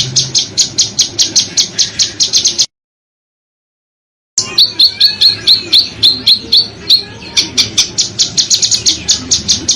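Recorded songbird calls used for masteran training. They are rapid, tightly spaced, sharp high chirps, about eight a second. The sound cuts to total silence for under two seconds, then resumes with a run of short notes falling in pitch, then the rapid chirping again.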